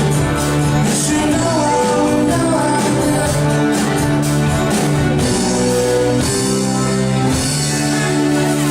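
Live rock band playing, with a singer's voice over guitar and a steady drum beat.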